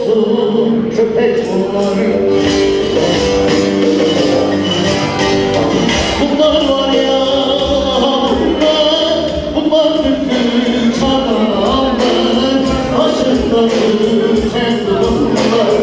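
Live Turkish folk music played loud by an amplified band, a sustained melody over a steady beat.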